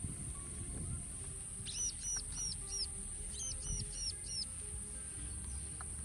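A bird calling twice, each time a quick run of four high, arched whistled notes, over a steady high-pitched hiss.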